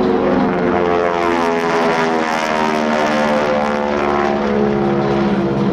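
Propeller airplane engines passing in a fly-by. The engine note drops in pitch as the aircraft go past about halfway through.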